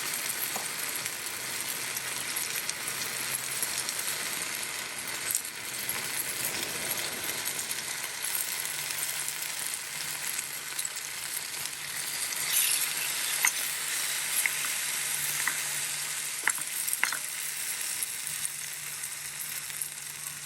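Lamb frying in a pan, a steady sizzle with a few sharp ticks and pops in the second half.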